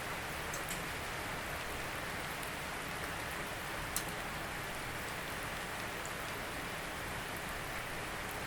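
Steady rain falling, an even hiss with a few sharp drip ticks, one clearer tick about four seconds in.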